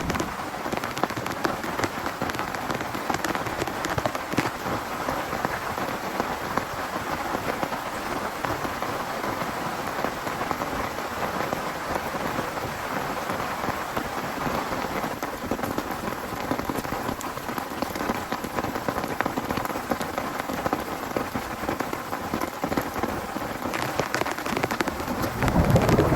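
Heavy rain falling steadily on a tent, with a dense patter of drops. Near the end, a low rumble of thunder begins to build.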